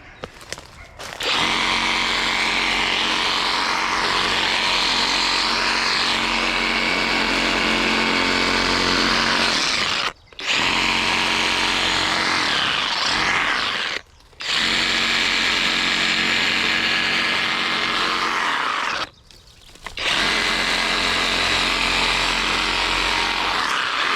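Skil cordless reciprocating saw cutting through small tree branches. It runs in four long, steady stretches, stopping briefly three times.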